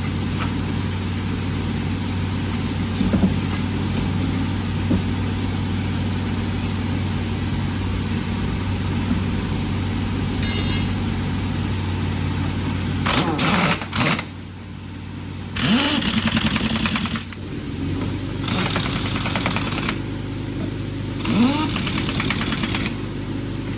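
Truck engine running steadily. In the second half the sound jumps abruptly several times, with short louder and quieter stretches.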